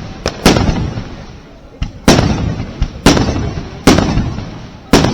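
Fireworks display: aerial shells bursting with loud bangs about once a second, five big ones in all, each trailing off in a rumbling echo, with a couple of smaller cracks between them.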